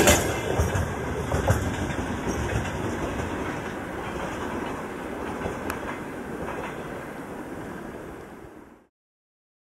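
Freight train's wagons moving away: a rumble with a few wheel clicks, loudest at the start as the last wagon goes by, fading steadily and then cutting off to silence near the end.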